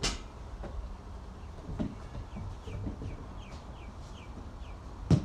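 A basketball hits the ground sharply at the start and again near the end, with a few softer thuds between. In the middle a small bird gives a run of about six short, falling chirps.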